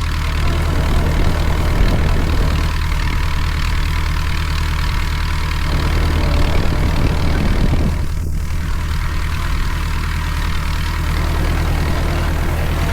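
Tractor engine running steadily while pulling a hay tedder, with an even hiss over the low engine note.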